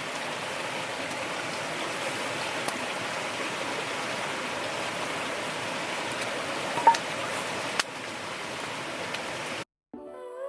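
Steady rushing of water, with a few faint clicks. It cuts off suddenly near the end, and soft music with held tones starts just after.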